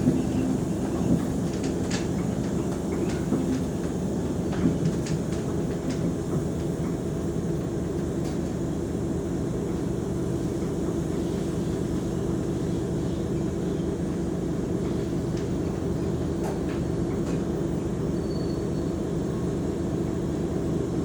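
Mercedes-Benz O345 Conecto G articulated bus running with a steady, even engine drone, with a few short knocks or rattles in the first five seconds.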